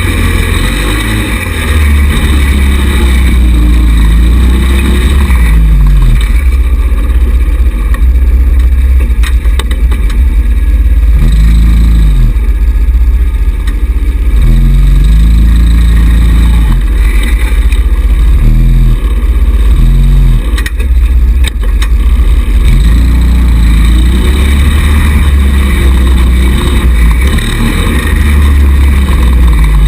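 Small 110cc buggy engine running under a heavy low rumble, its pitch repeatedly rising and falling as the throttle is opened and eased off while driving.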